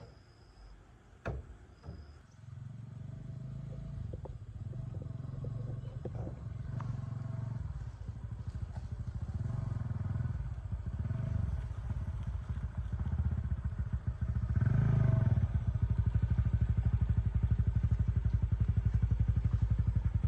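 Small motorbike engine running at low speed. It starts about two seconds in after a sharp knock, grows steadily louder, and holds steady near the end.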